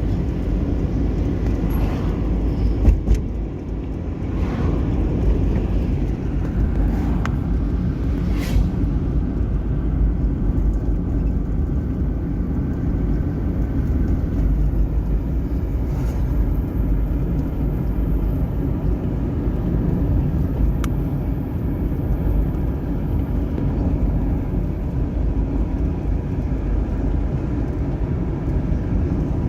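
A vehicle driving along a road: a steady low rumble of engine and road noise, with a few short knocks about three seconds in and again near nine seconds.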